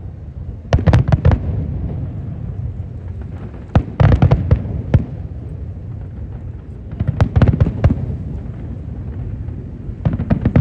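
Fireworks display: shells bursting in quick clusters of sharp bangs, four volleys a few seconds apart, with a low rumble between them.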